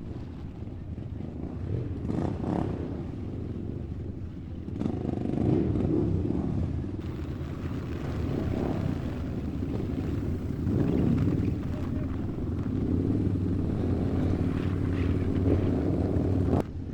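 A vehicle engine running, with its pitch and level rising and falling, cut off suddenly near the end.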